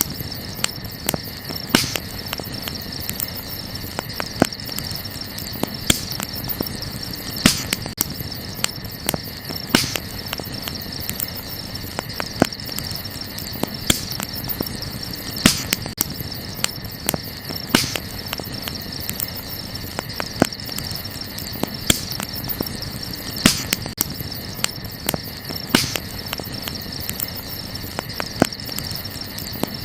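Wood campfire crackling, with sharp pops every second or so and a few louder snaps. Underneath runs a steady high chirring of night insects such as crickets.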